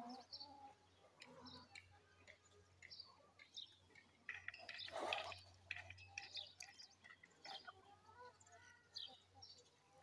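Faint chirps and calls of birds, many short high chirps scattered throughout, with a brief louder rush of noise about five seconds in.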